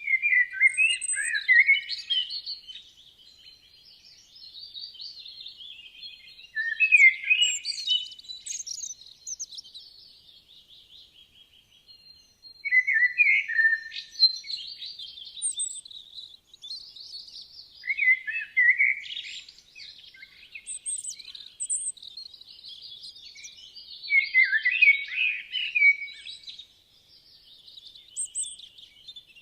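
Woodland songbirds singing. Loud, varied song phrases of a second or two recur every five or six seconds over fainter, continuous twittering from other birds.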